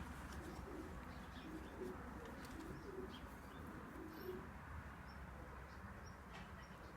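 Pigeons cooing faintly in the background, with scattered short high chirps over a steady low hum.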